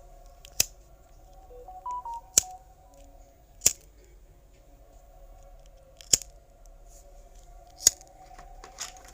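Sparse, sharp clicks or snips, six of them at uneven intervals, over a soft sustained drone of two low notes. A few short, higher electronic beeps come about two seconds in, as part of an experimental electronic track.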